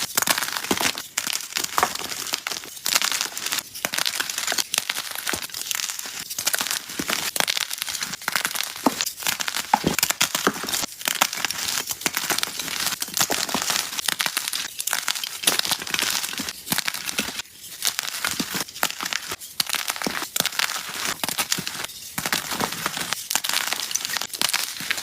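Gym chalk being crushed and crumbled, a dense run of crisp crackles and crunches with no pause.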